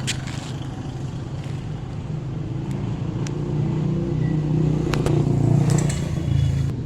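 A motor vehicle engine running steadily, swelling in level from about four seconds in and easing near the end, with a few light metallic clicks.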